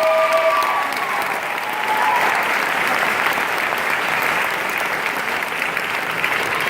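Audience applauding, with a few voices calling out in the first couple of seconds.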